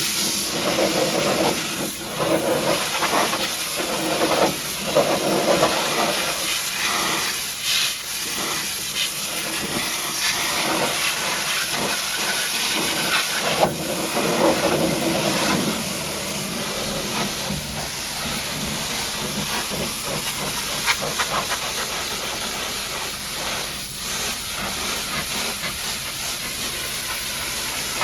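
High-pressure washer jet spraying water onto a truck, a loud continuous hiss that swells and dips as the spray moves over the surfaces, a little softer in the second half.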